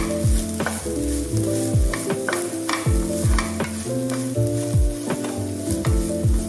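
Sliced onions with ground spices sizzling in a frying pan while a wooden spatula stirs and scrapes them. Background music with a steady beat plays over the frying.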